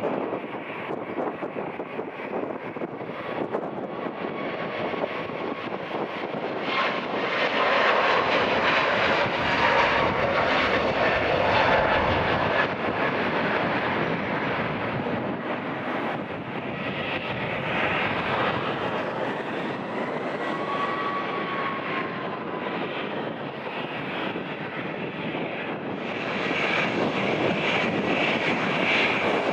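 Jet airliner's engines, loud and steady, with a faint whine running through them. The sound swells about a quarter of the way in, eases in the middle and rises again near the end.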